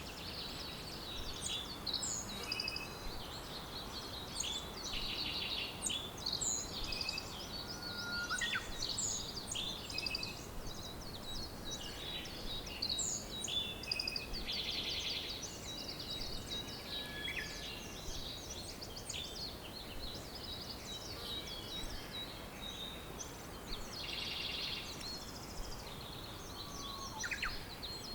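Several songbirds chirping and singing at once, with many short, overlapping high notes and trills over a steady background hiss.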